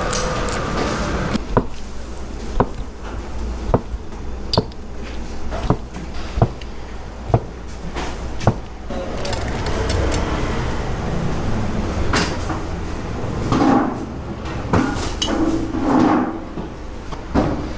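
Sharp knocks, one about every second, over a steady low background noise.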